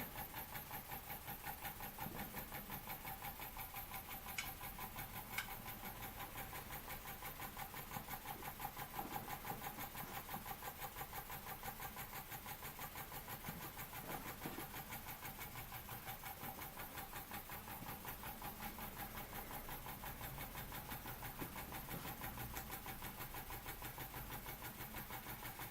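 Weeden 420 model steam engine running slowly and steadily on steam, an even, rapid beat of small exhaust puffs from the cylinder turning the flywheel.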